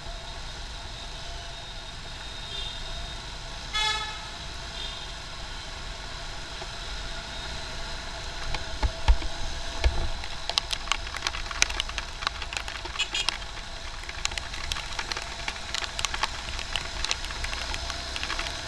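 Road traffic heard from a motorcycle in rain: a steady hum of engines with a short vehicle horn beep about four seconds in. From about eight seconds on, many sharp ticks and knocks come thick and fast over the hum.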